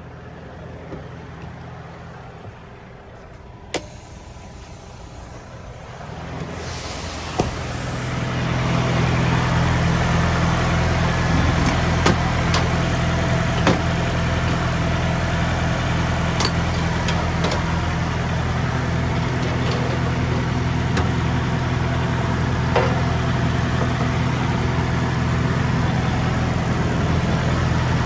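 Semi-truck diesel engine running with a steady low hum; it is faint for the first several seconds and grows louder from about six to nine seconds in, then holds steady. A few light clicks and knocks sound over it.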